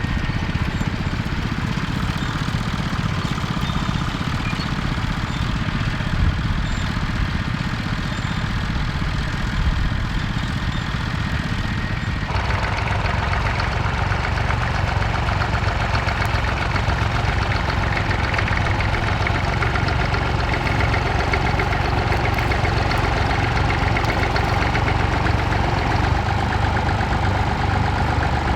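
Massey Ferguson tractor engine running steadily. About twelve seconds in the engine sound changes abruptly to a different, steady engine note.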